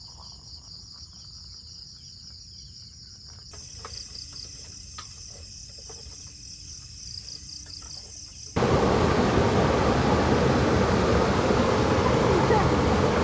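Chorus of crickets, shrill pulsing trills, which jumps louder about three and a half seconds in. About eight and a half seconds in it cuts to a loud, steady rushing noise.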